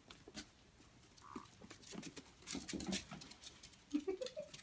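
Seven-week-old puppies playing on a hard floor: scattered pattering and light knocks from paws, claws and toys, with a short squeak rising in pitch near the end.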